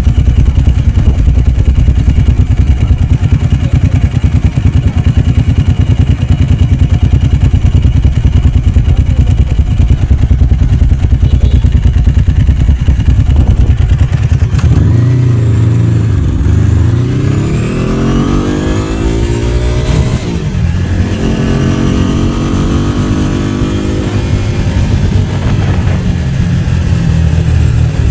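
Ducati 749's L-twin engine idling with a low, uneven pulse for about half the time, then revving up as the bike pulls away. Its pitch climbs, drops sharply at a gear change about two-thirds of the way in, and climbs again.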